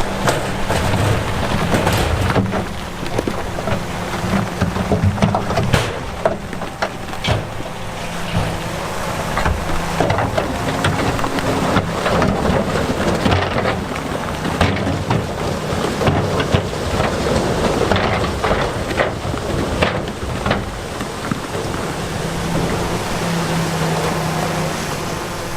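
Heavy diesel earthmoving machinery working, its engine running under load amid a continuous rumble and many sharp clatters of big stones tumbling and knocking together.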